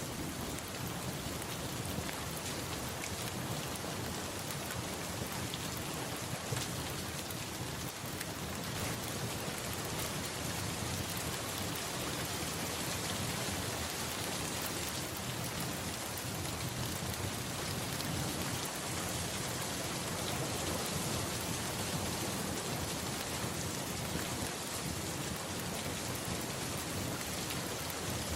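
Steady rain falling on a surface, an even dense patter, with a low rumble underneath throughout.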